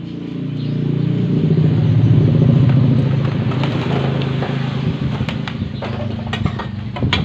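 A small engine running, growing louder over the first two seconds and then easing off, with sharp metallic clicks and taps over it in the second half.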